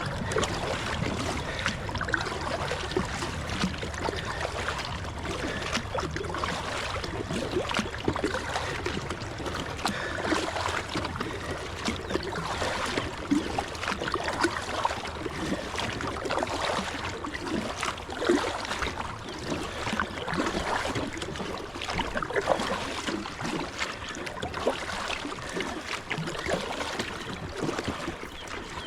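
Kayak paddle strokes dipping and splashing in a strong river current, with water running steadily along the hull of the kayak.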